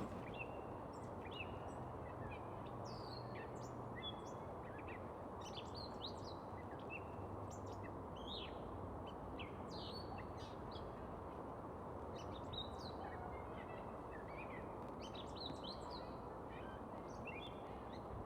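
Several small birds chirping and singing in short, quick notes over the steady rush of a flowing creek.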